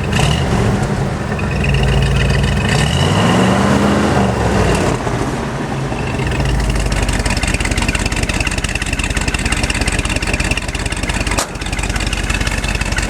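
1974 Ford F-250's 360 FE V8 revved once: the engine speed climbs a couple of seconds in, falls back after about two seconds, and the engine then idles steadily.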